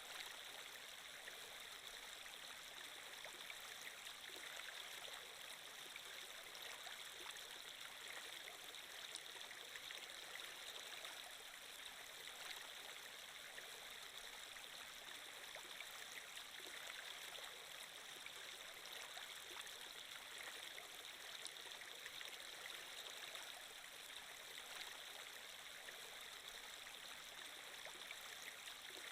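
Steady flowing water, a stream running and trickling without a break, from a water-flow ambience track.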